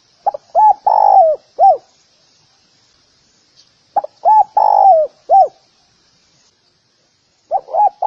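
Spotted dove cooing: three phrases, each a few short coos around one longer coo that falls in pitch, with about two seconds of quiet between them; the third phrase begins near the end.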